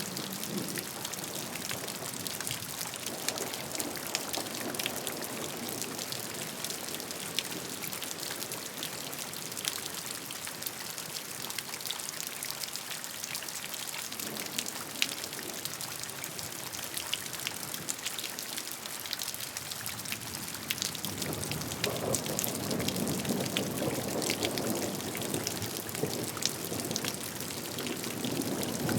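Steady rain falling, an even hiss full of small, sharp drop ticks. About three quarters of the way through, a louder, lower rush of water swells up and eases off again.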